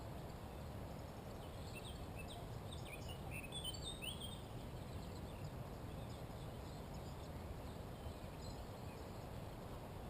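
A songbird singing a rapid run of high chirps and quick up-and-down notes from about a second in to about five seconds in, with a few fainter notes later, over a steady low background rumble.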